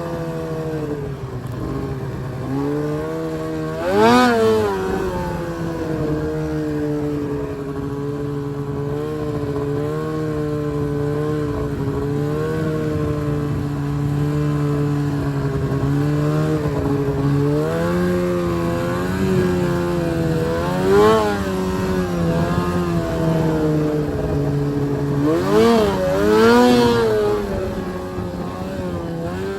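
Arctic Cat M1000 snowmobile's two-stroke twin engine running at a steady throttle, with short rev surges about four seconds in, around twenty-one seconds in, and twice near the end.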